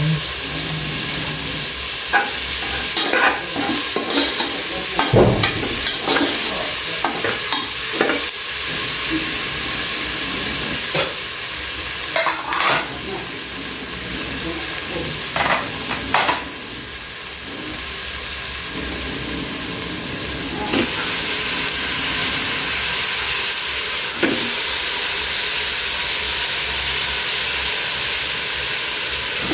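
Food frying in oil in an aluminium pot on a gas burner: a steady sizzling hiss, with scattered knocks and clatter of utensils in the first half. The sizzle grows louder about two-thirds of the way through as more food goes into the pot.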